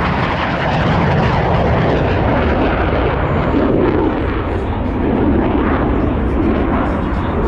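Loud, steady jet noise from F/A-18 Super Hornet fighters flying the display, with mild swells in level.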